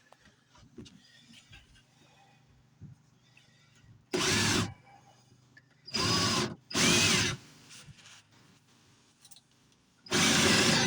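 Power drill run in four bursts, the motor speeding up and slowing down in each; three short runs about four, six and seven seconds in, and a longer run starting near the end.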